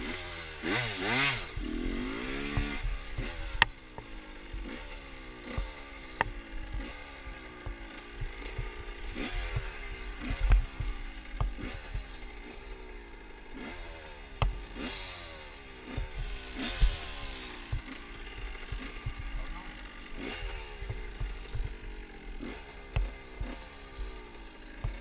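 Motorcycle engine running with its revs rising and falling over and over, as when riding, with frequent knocks and clatter over it.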